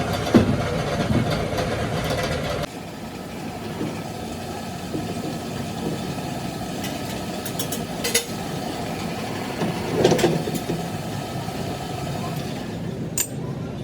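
A machine motor running steadily with a hum, dropping off abruptly about three seconds in. A quieter running noise follows, with a few sharp metallic clicks and knocks.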